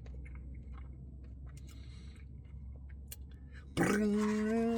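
Faint scattered clicks and a short hiss, then a man's voice holding one loud, steady note for about a second, starting near the end.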